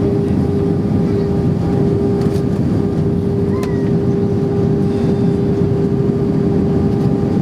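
Steady cabin noise inside an Airbus A319-131 in flight, from its IAE V2500 engines and the airflow, with a steady hum tone running through it.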